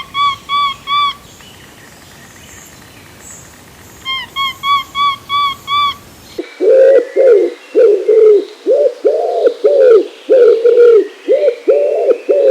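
Bird calls in two parts: two bursts of short, evenly spaced, arched high calls, then, after a cut about halfway, a louder, faster run of lower calls.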